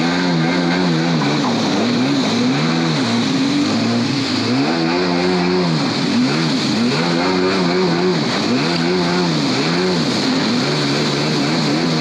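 Jet ski engine running hard, its pitch rising and falling again and again as the throttle is opened and eased, over a steady hiss.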